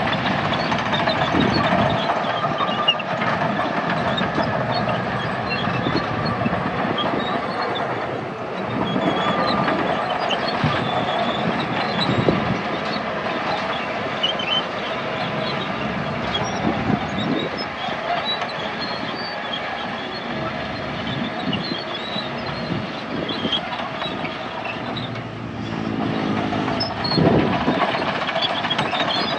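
Heavy earthmoving machinery, a bulldozer at work, its diesel engine running steadily with some metallic clatter.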